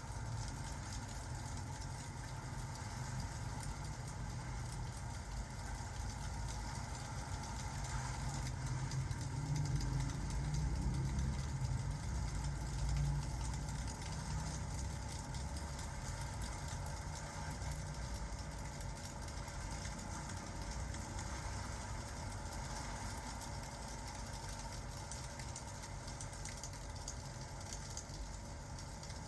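Fireplace crackling with rain falling, over a steady low rumble that swells slightly around the middle.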